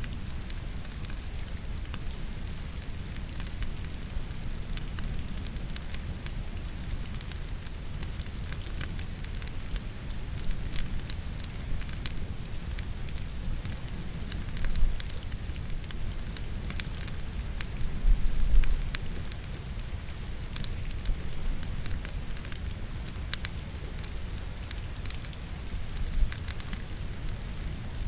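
Wood logs burning in a fireplace, crackling with many small pops, over steady rainfall. A few louder low thumps stand out, the loudest about halfway through.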